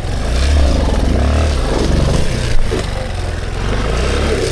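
Dirt bike engine running under load, its revs rising and falling as it picks its way over rough trail, with one sharp knock about two and a half seconds in.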